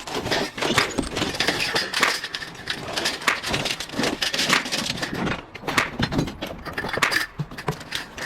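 Scrap metal being handled: an irregular run of clanks, clinks and scrapes as pieces knock against each other.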